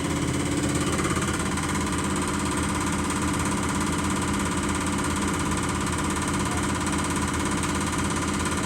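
Diesel injector test stand running: the high-pressure pump and a common-rail injector firing in a fast, even pulsing at about 160 MPa rail pressure. It runs steadily and sounds really smooth, a sign the injector is working well.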